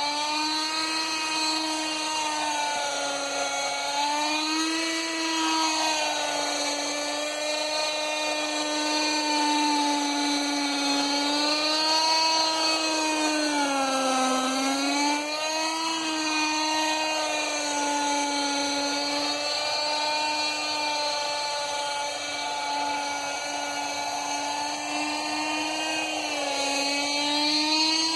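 Norvel .061 two-stroke glow engine of a Lite Machines 110 nitro RC helicopter running at high revs, a continuous high buzz whose pitch wavers up and down with throttle and load, dipping briefly about midway.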